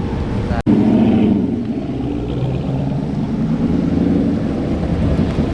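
Car engine running steadily, with a brief gap in the sound less than a second in.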